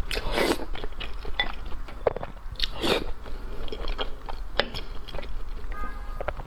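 Close-up eating sounds: crunchy bites and chewing, in irregular bursts with small clicks between them, the loudest crunches about half a second and three seconds in.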